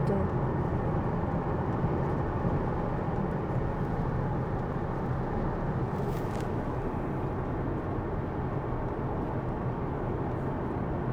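Steady road noise inside an electric Tesla's cabin while it drives in heavy rain: tyres hissing on wet pavement, with a brief faint hiss about six seconds in.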